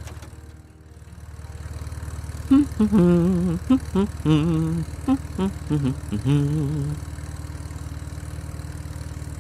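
A steady low engine hum runs through. It dips about half a second in, then comes back. From about two and a half seconds in to about seven seconds, a louder run of short pitched notes, some held flat and some bending, sits over the hum.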